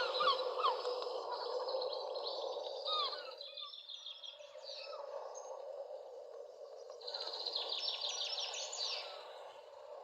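Wild birds singing: a string of repeated chirps in the first second, then fast high trills twice, over a steady background hiss.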